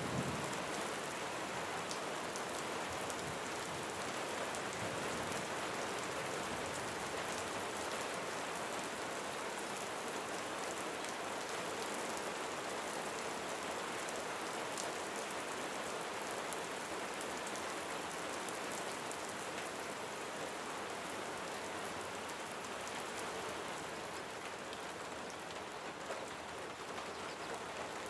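Steady rain falling on a roof, with a dense patter of individual drops ticking against it.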